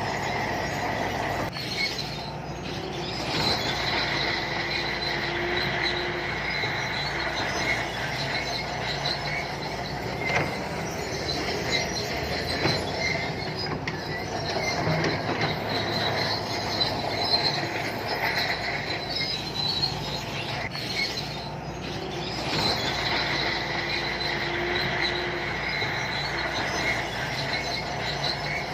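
Santui crawler bulldozer working: diesel engine running with a high squealing from the steel tracks that swells and fades.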